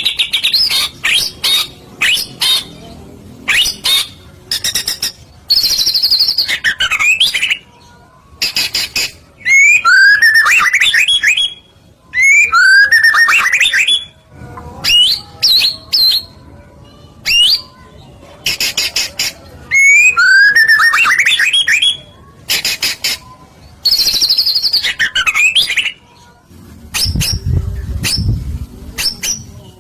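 White-rumped shama (murai batu) singing loudly in long, varied phrases of rapid ticking trills, rising whistles and harsh chattering notes, with short pauses between phrases. A low rumble comes in near the end.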